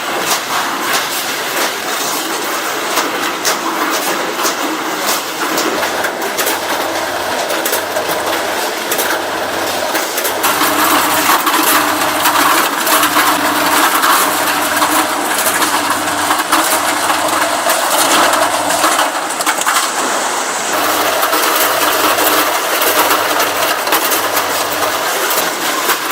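Multihead weigher running with chicken drumsticks, the pieces clattering and knocking through its feed pans and weigh hoppers in a dense, continuous stream. Under it a low hum switches on and off about once a second, and the clatter gets louder about ten seconds in.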